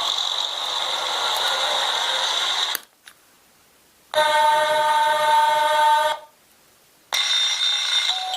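Railway sound effects played back from a model-railway sound unit. A station crowd-noise hiss stops, then an electric train's horn sounds as a steady chord of tones for about two seconds. Near the end, after a short pause, the next effect starts with a high steady tone.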